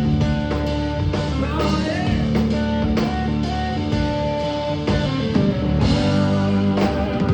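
Live blues-rock band playing, with electric guitar notes bending in pitch over sustained chords and regular beats.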